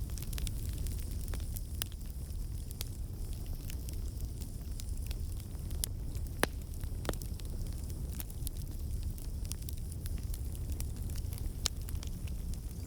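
Campfire burning: a steady low rumble of the flames with frequent sharp crackles and pops at irregular intervals, a few louder snaps among them.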